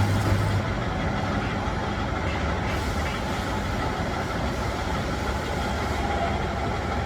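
Machinery running steadily, a continuous mechanical noise with a low hum.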